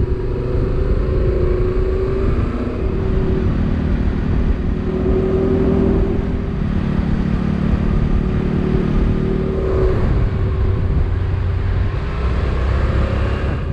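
Motorcycle engine running while riding, its note shifting up and down a few times as the speed changes, over a heavy rush of wind on the microphone.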